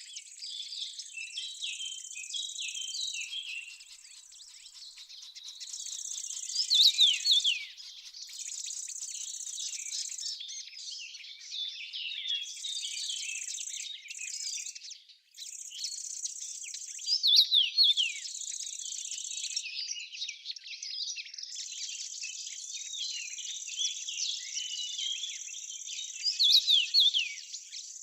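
Birds chirping and calling, with quick falling whistles, over a high insect trill that starts and stops every second or few. A louder burst of calls comes about every ten seconds.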